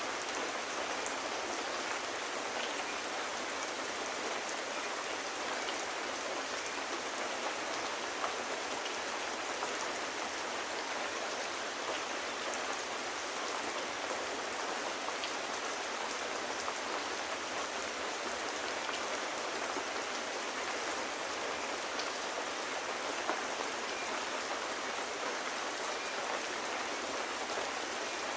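Steady rain falling, an even hiss with scattered faint ticks throughout.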